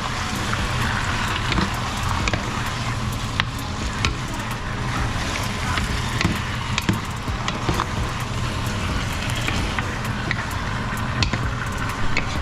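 Chicken pieces sizzling in hot oil with browned garlic and onions, with frequent sharp clicks and scrapes of a utensil stirring against the pan. A steady low hum runs underneath.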